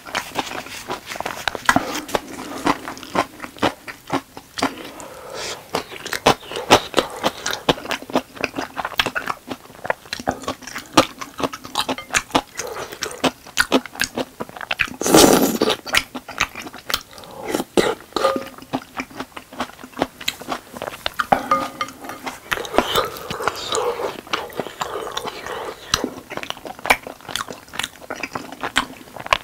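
Close-miked chewing and mouth sounds of a person eating tteokbokki, chewy rice cakes in a thick spicy sauce: a steady run of wet clicks and smacks, with one louder, longer noise about halfway through.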